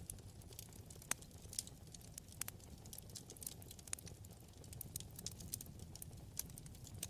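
Wood fire burning in a fireplace: irregular sharp crackles and pops over a low, steady rumble of flame, with a louder pop about a second in.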